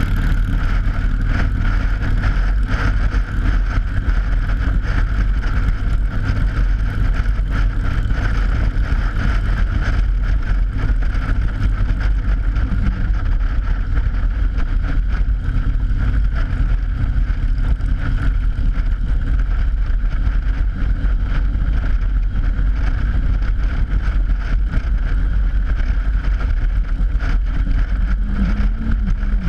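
Motorcycle cruising over a steel grate bridge deck: a steady low engine and road rumble with a constant hum from the tyres on the open grating, and wind buffeting the GoPro microphone.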